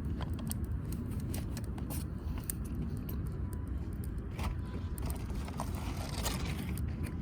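Wood fire crackling in a wood grill, with irregular sharp pops and snaps over a steady low rumble. The firewood is damp.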